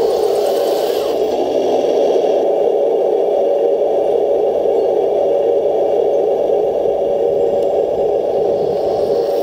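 RC Leopard tank's electric drive motors and transmission running, a loud steady whir with some rattle, with a little added hiss for the first two seconds.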